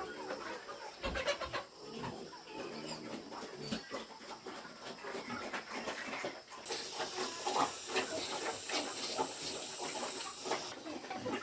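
Pigs grunting and shuffling in a farm pen, many short irregular noises. A steady high hiss joins in a little past halfway and stops shortly before the end.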